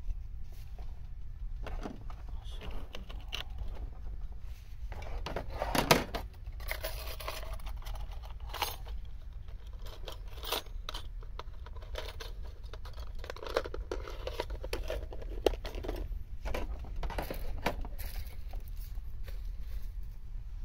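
Irregular handling noises, rustling and crinkling with small clicks and scrapes, the sharpest about six seconds in, over a steady low rumble.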